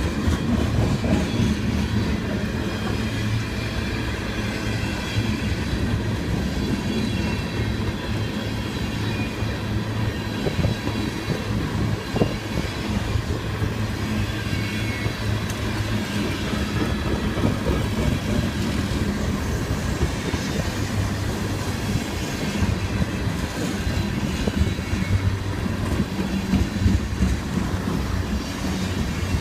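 Freight train cars rolling past, a steady rumble with the clatter of steel wheels over the rails.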